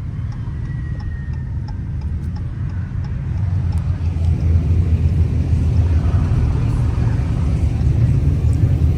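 Deep, steady car engine and exhaust rumble that grows louder about three and a half seconds in.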